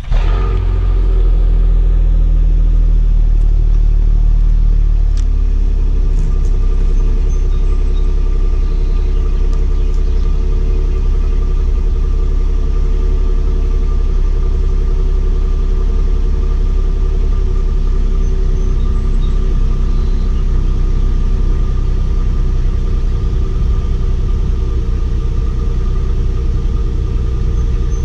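2017 Nissan Maxima's 3.5-litre V6 cold-started by its key fob: it fires right at the start and runs at a steady fast idle, heard from behind at the dual exhaust tips. Its idle note eases slightly about five seconds in.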